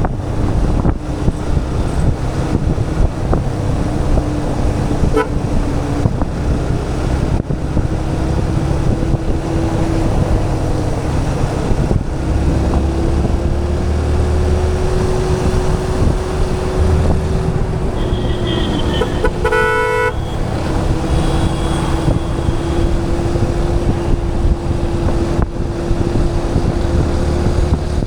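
Motorcycle running steadily through city traffic, its engine a constant drone under wind noise on the microphone. Another vehicle's horn gives one short honk about two-thirds of the way through.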